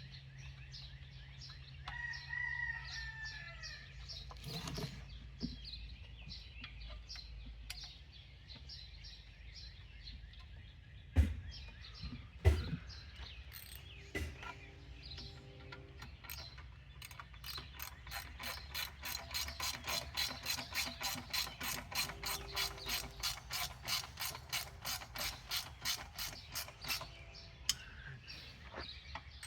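Ratchet wrench clicking as bolts are run in on a small Briggs & Stratton engine's cover, an even run of about four clicks a second through the second half. Two sharp knocks come just before the middle.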